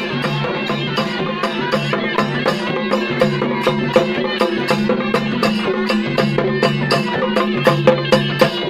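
Traditional folk music: drums beating a steady quick rhythm, about three to four strokes a second, under a sustained melody and drone.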